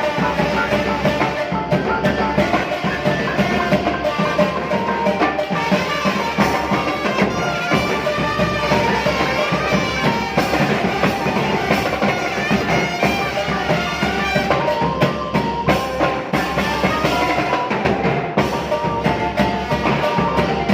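Thai village brass band (trae wong) playing a melody on brass and wind instruments over a steady drum beat.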